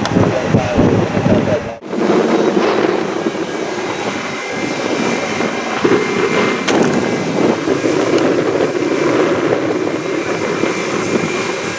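Jet airliner engines running with a steady rush and faint high whine, broken by a sudden cut about two seconds in.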